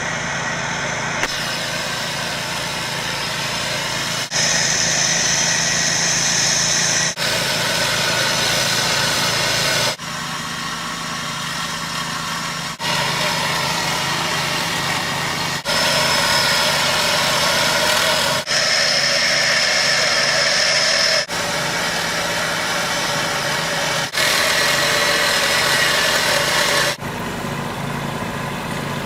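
Heavy machinery engines running steadily, in a string of short clips that cut abruptly every two to three seconds; some clips carry a high-pitched whine on top of the engine.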